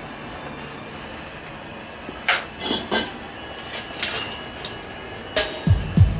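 Sharp metallic clinks and knocks, several separate strikes starting about two seconds in and growing louder near the end, over a steady low background noise.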